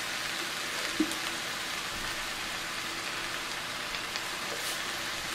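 Sliced okra with onions and garlic sizzling steadily in a stainless steel frying pan, a constant hiss with a light tap about a second in.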